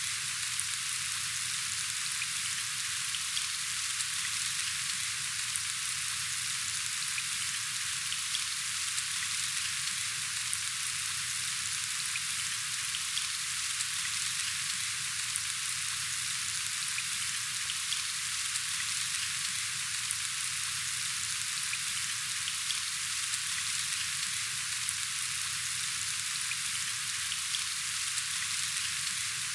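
Steady rain falling, a dense, even patter of fine drops with no let-up.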